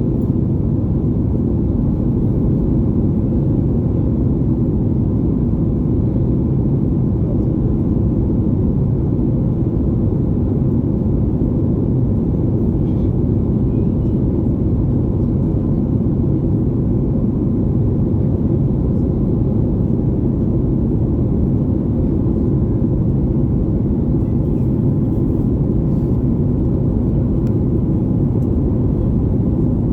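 Steady low rumble of a Boeing 737 MAX 8's passenger cabin in flight: its CFM LEAP-1B engines and the airflow around the fuselage, unchanging throughout.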